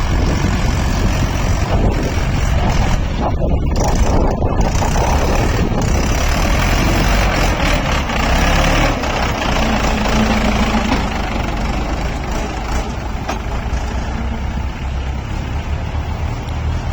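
Tractor engine running steadily under load, a loud low rumble with a wide noisy wash over it.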